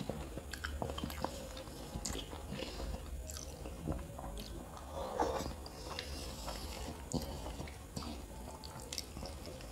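Close-up chewing of kottu roti, chopped flatbread with egg, eaten by hand: irregular wet mouth clicks and smacks, with fingers gathering more food from the plate.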